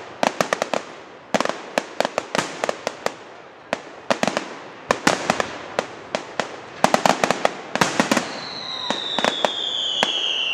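Fireworks exploding in rapid volleys of sharp cracks and bangs. About eight seconds in, a whistling firework screams with a slowly falling pitch.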